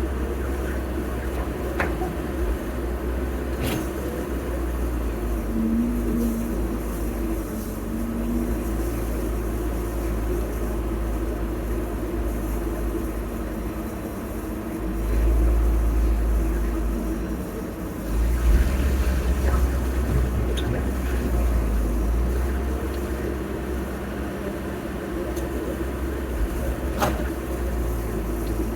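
Heavy diesel earth-moving machinery running with a deep, continuous rumble that swells about halfway through and again a few seconds later as it works harder, with a few sharp clanks.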